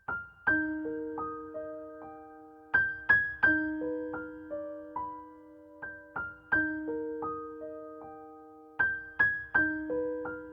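Background music: a gentle, lullaby-like melody on piano or electric piano, single struck notes that ring and fade, in a short phrase that repeats about every three seconds.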